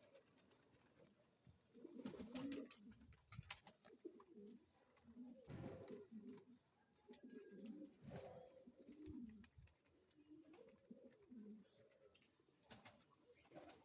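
Captive pigeons cooing: repeated low, wavering coos in short phrases, with a few sharp clicks in between.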